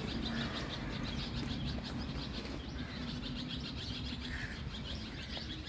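Small birds chirping: a quick, even run of short high chirps, with a few louder calls near the end.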